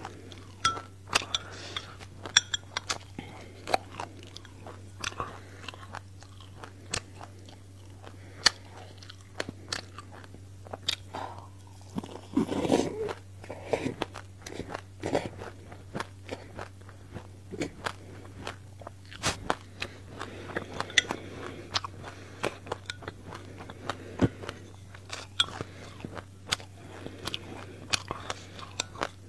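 Close-up mouth crunching and chewing of a mouthful of dry sesame seeds: rapid sharp crackles throughout, with a louder burst of chewing about halfway through. A faint steady low hum lies underneath.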